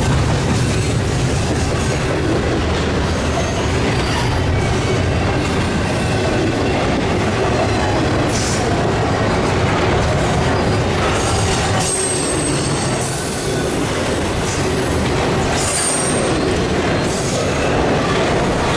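Double-stack intermodal freight train's loaded well cars rolling past close by: a steady rumble of steel wheels on rail, with a few brief high wheel squeals in the second half.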